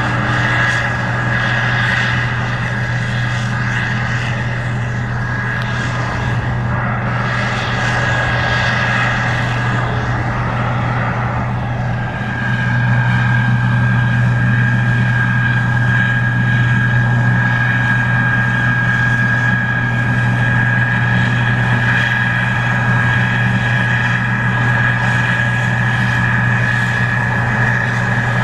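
Case IH 2144 Axial-Flow combine running steadily while harvesting corn: a constant low engine drone with a steady high whine above it. It gets louder about twelve seconds in.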